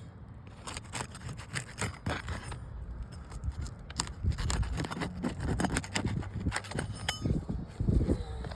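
Flat end of a roof snake shingle tool prying under asphalt shingles to break their adhesive seals: irregular scraping with many sharp clicks, over a low rumble.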